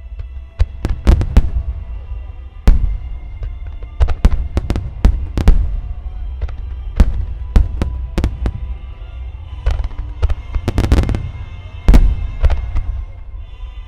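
Aerial fireworks shells bursting in quick clusters: sharp bangs one after another, with a heavy low rumble rolling between them.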